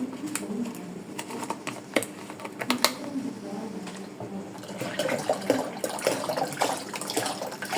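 Scattered light clicks and knocks, with some liquid sounds, as milk is added to a container of soursop juice.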